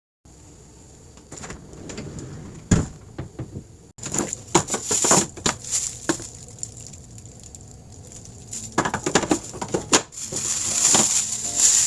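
Packaged food and plastic storage cases being handled: rustling with a scatter of light clicks and knocks, louder clusters of them about 4 to 6 seconds in and again near 9 to 10 seconds.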